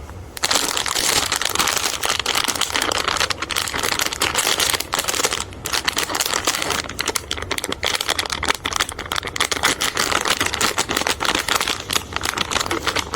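Continuous crinkling, crackling noise made of many rapid small clicks, with a few brief dropouts, cutting off sharply near the end.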